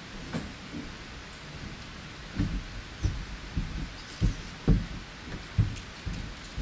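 A steady background hiss, with irregular dull low thumps starting about two seconds in, roughly one or two a second.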